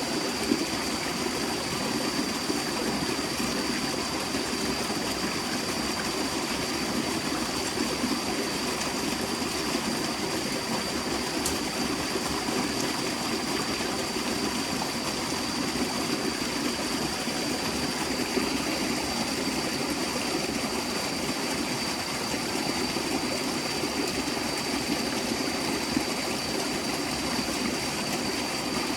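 Forest stream flowing: a steady, unbroken rush of water. A faint steady high-pitched tone sits over it.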